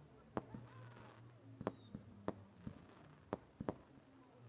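Distant fireworks cracking and popping at irregular intervals, roughly one or two cracks a second, with a faint high whistle falling in pitch about a second in.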